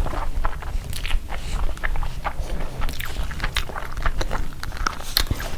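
A person eating close to the microphone: biting and chewing food, with irregular sharp clicks and crackles.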